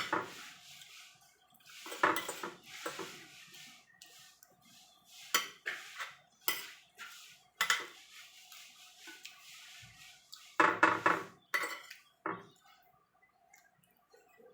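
Spoon and fork clinking and scraping against a plate while eating, in irregular short clatters with a denser cluster about two-thirds of the way in. A faint steady hum runs underneath.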